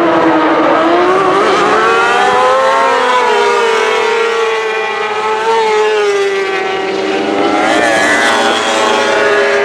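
Superbike racing motorcycle engines at race speed, their pitch rising and falling as the bikes accelerate, brake and change gear.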